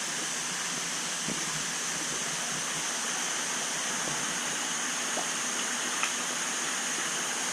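Steady rush of water circulating in a large fish exhibit, an even hiss with a few faint ticks.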